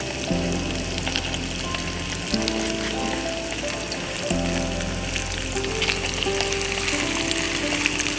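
Food sizzling in a frying pan, with a steady crackle of small pops, under background music.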